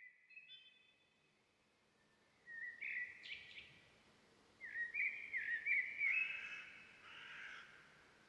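A bird calling: short, repeated whistled chirps with upward hooks, coming in two or three phrases, the loudest about five to six seconds in.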